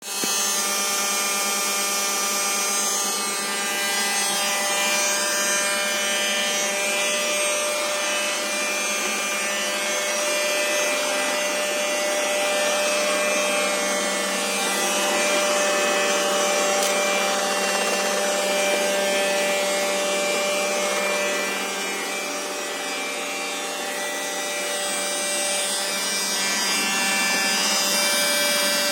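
Roborock robot vacuum running with a steady whine of several fixed tones over a rough rubbing noise, a sound its owner calls strange.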